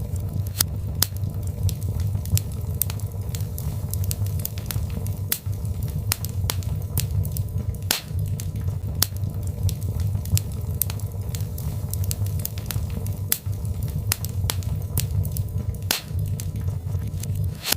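Birch logs burning in a fireplace: irregular crackling and sharp pops over a steady low rumble of the flames, with louder pops about eight seconds in and near the end.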